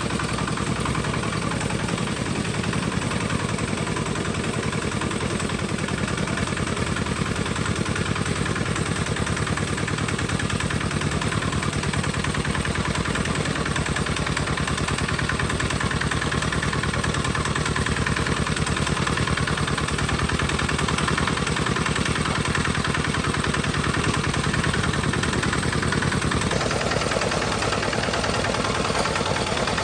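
Engine of a homemade farm tractor running steadily with a rapid, even pulse; its tone changes near the end.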